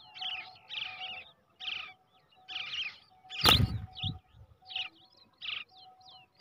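Brown shrike chicks giving short, scratchy begging calls over and over, one to two a second. A loud knock sounds about halfway through.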